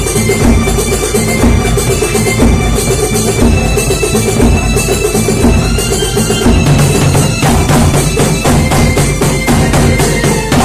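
Kuntulan percussion ensemble playing a fast, dense, steady drum rhythm, with some pitched instrument tones mixed in.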